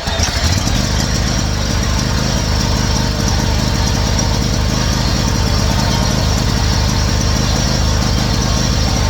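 2009 Toro zero-turn mower engine catching at the very start and then running steadily, turned over by a Hole Hawg drill in place of its failed electric starter.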